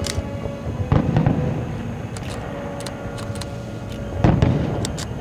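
Aerial fireworks shells bursting: two deep booms about three seconds apart, each trailing off in a low rumble, with scattered sharp ticks in between.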